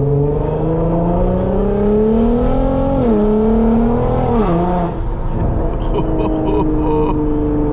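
Infiniti Q50's engine and loud exhaust under acceleration: the pitch climbs for about three seconds, drops sharply at a gear change, climbs briefly and drops again, then settles into a steady lower drone as the car cruises.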